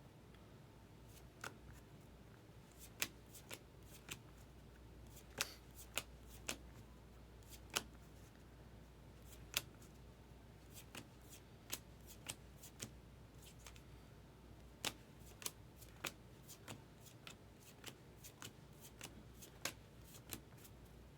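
Baseball trading cards being flipped through one at a time by hand: a string of short, crisp card snaps at an irregular pace, one or two a second, over a faint quiet background.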